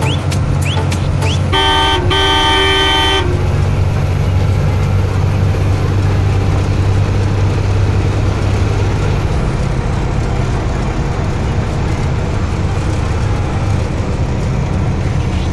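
Truck horn blown once for about a second and a half near the start, over the steady drone of the truck's engine and road noise. Short rising chirps repeat at the very start.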